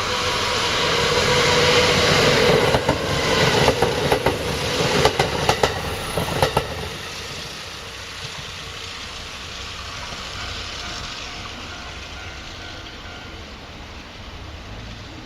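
Kintetsu electric train passing close by: the running noise swells, the wheels click over the rail joints for a few seconds, and the noise fades as the train moves away.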